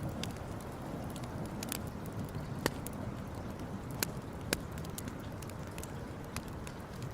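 Wood campfire crackling, with irregular sharp pops over a steady low rumble; the loudest pops come about a third of the way in and twice more a little past halfway.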